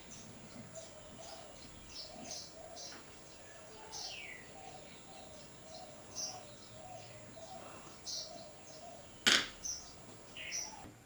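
Birds chirping with many short high calls, one falling in pitch about four seconds in, over a steady wavering warble. One sharp knock stands out about nine seconds in.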